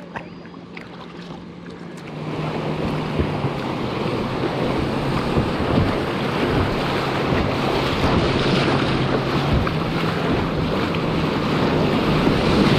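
Rushing river water with wind buffeting the microphone. The noise swells about two seconds in and keeps growing louder.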